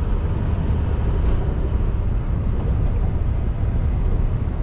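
Scania R620's V8 diesel engine running steadily under way, heard from inside the truck cab as a steady low rumble.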